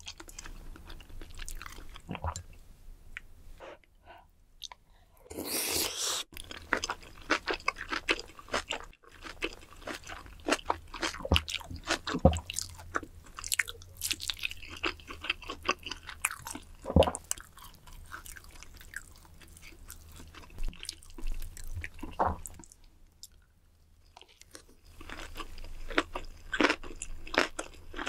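Close-miked chewing and biting of Korean snack-bar food, including a dumpling, with wet mouth clicks and some crunch. There is a brief louder rush of noise about five seconds in.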